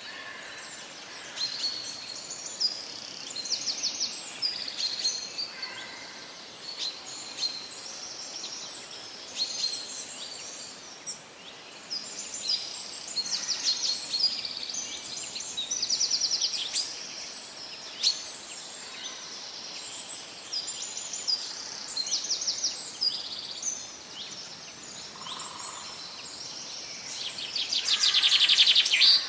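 Wild birds chirping and calling in quick, repeated high phrases and trills over a steady faint background hiss, with a louder, rapid trill near the end.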